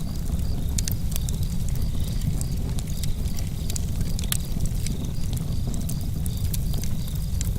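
Campfire burning with a deep low rumble and frequent sharp wood crackles and pops. Crickets chirp in a steady pulsing trill behind it.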